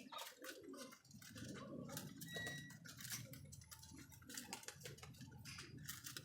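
Pigeons pecking at grain, a faint, quick, irregular run of light ticks.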